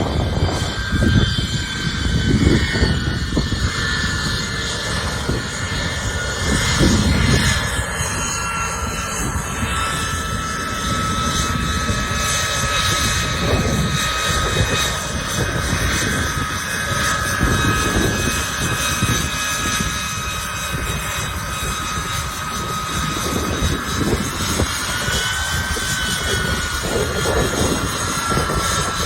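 Turbine aircraft engines running with a steady high whine that drifts slowly in pitch and rises and falls briefly near the end. Gusty wind buffets the microphone underneath.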